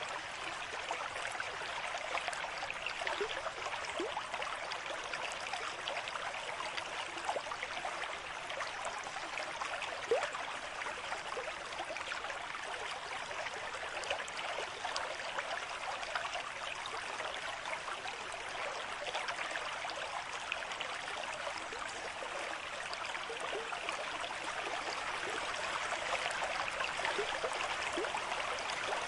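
Water flowing in a stream: a steady babbling rush dotted with many small splashes and gurgles, unchanging throughout.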